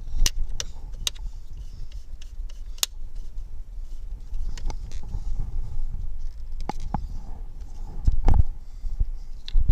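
Scattered metallic clicks and knocks, irregularly spaced, from tools and battery hardware being handled during a car battery replacement, over a low rumble.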